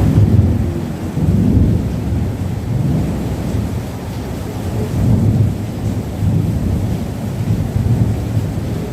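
Rainstorm: rain with a loud low rumbling that swells and fades every second or so.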